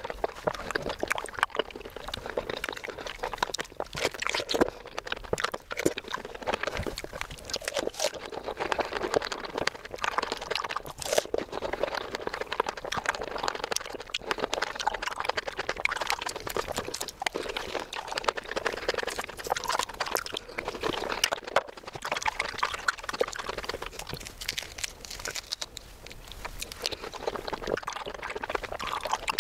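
Close-miked chewing of soft, juicy fresh fruit: continuous wet mouth sounds with many small clicks and smacks.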